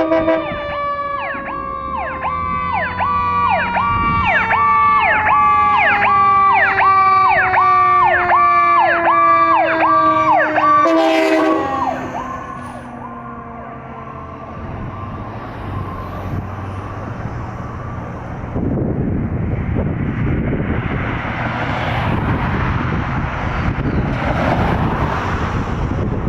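Fire engine siren: an electronic siren on a fast yelp over a mechanical Q siren winding down in pitch, then a short air-horn blast about 11 s in. After that the sirens fade and the truck's engine and road noise take over, growing louder in the second half as it passes.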